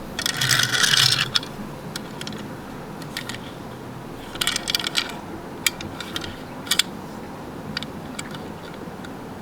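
Small toy vehicles being handled: a short rattling scrape at the start, then scattered sharp clicks of plastic and die-cast parts.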